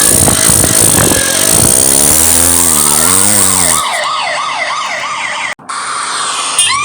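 Vehicle sound effects: a wavering engine-like drone under a hissing wash, joined by a police siren yelping in quick up-and-down sweeps that cuts off about five and a half seconds in; a new rising siren wail starts near the end.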